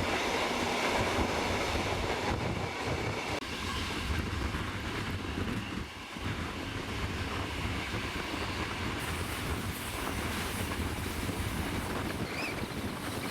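Steam-hauled passenger train running along the track: a steady rumble of the moving train.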